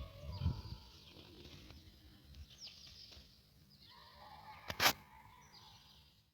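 Birds chirping and trilling, with one loud, short honk-like call about five seconds in. A couple of low thuds come in the first half second.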